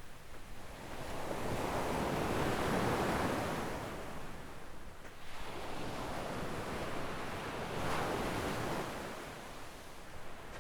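Gentle waves breaking and washing up a sandy shore, the surf swelling and fading in slow surges, loudest about two to three seconds in and again about eight seconds in.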